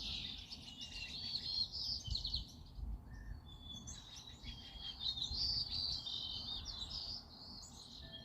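Several songbirds chirping and singing together in quick, high chirps and short trills, with a brief lull about three seconds in.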